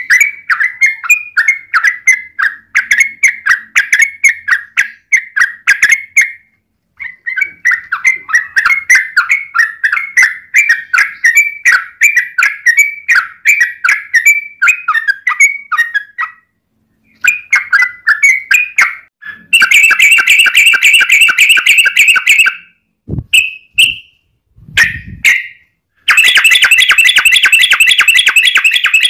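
Yellow-vented bulbul (trucukan) calling: rapid strings of chattering notes, then fast rolling trills ('ropel') about two-thirds of the way through and again near the end, with a few brief pauses between phrases.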